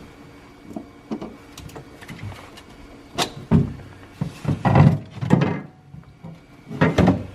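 A series of short knocks and clunks with rustling in between, like hands handling equipment around a car.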